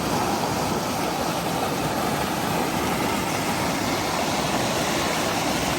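Loud, steady rushing of fast-flowing creek water, an even hiss and rumble that starts abruptly and holds unchanged.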